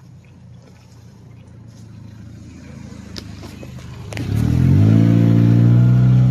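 A car engine draws closer, then accelerates loudly about four seconds in. Its pitch climbs briefly and then holds nearly steady.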